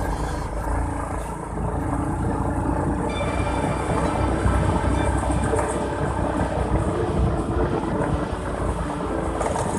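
Steady low rumble of a motorcycle in motion: engine and wind noise while riding.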